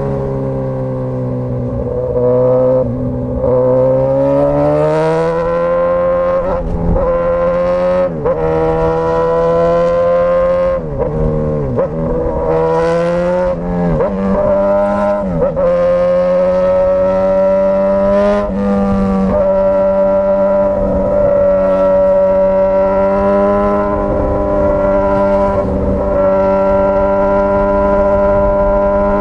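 Straight-piped Suzuki GSX-S1000 inline-four engine running loud and steady. Its revs rise about four seconds in, dip briefly and pick up again several times as the throttle is eased off and reopened, then hold steady through the second half.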